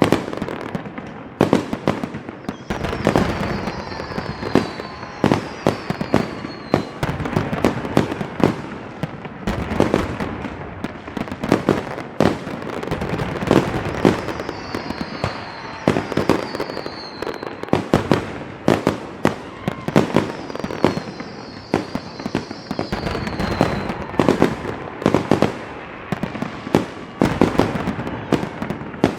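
Fireworks going off in a dense, irregular barrage of bangs and crackling, with several short falling whistles in among them.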